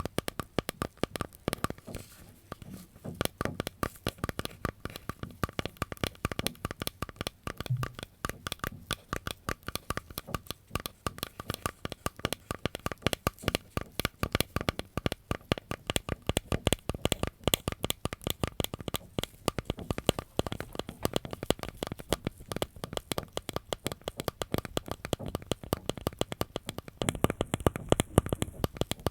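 Close-miked ASMR trigger sounds: a fast, continuous run of small crackles and taps, like something being crinkled or tapped right at the microphone.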